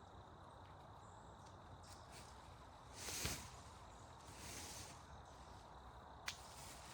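Two brief swishing rustles, the first louder, then one sharp click near the end, over a faint steady outdoor hiss.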